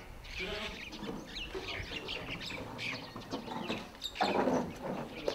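Birds chirping and calling, with one louder call a little after four seconds in.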